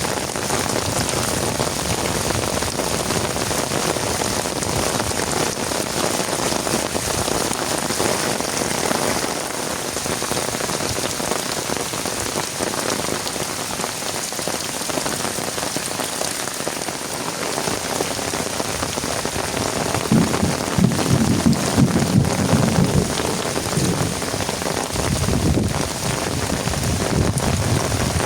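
Heavy rain pouring steadily, with a low rumble swelling about two-thirds of the way through.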